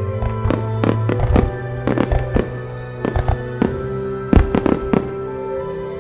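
Aerial firework shells bursting in a rapid, uneven series of sharp cracks and booms, loudest in a cluster a little past four seconds in, over music played to accompany the show.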